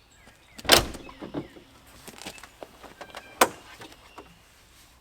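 Two sharp bangs of vehicle doors being shut, one under a second in and one at about three and a half seconds, with small clicks and rustles of handling between them.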